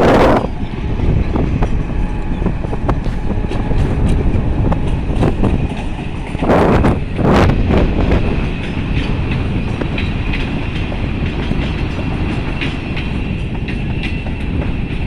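A passenger train hauled by an ONCF E-1250-class Hitachi electric locomotive rolls steadily past with a low rumble and light clicking of wheels over the rail joints. Two brief gusts of wind hit the microphone about halfway through.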